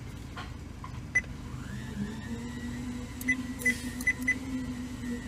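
Steady low hum of an idling car with the air conditioning on, heard from inside the cabin. About two seconds in, a machine whine rises and then holds steady, and several short sharp beeps or clicks sound, most of them between three and four and a half seconds.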